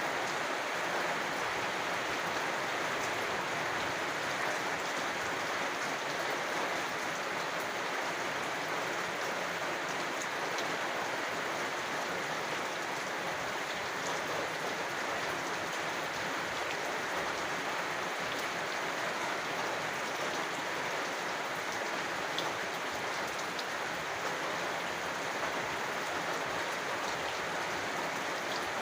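Steady rain falling: a dense, even hiss of drops with a few sharper single drop ticks.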